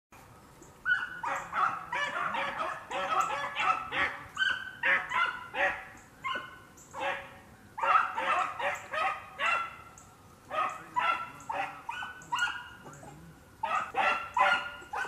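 Rabbit-hunting dogs barking over and over while running a rabbit on its scent trail: a string of short barks, about one a second, with brief lulls.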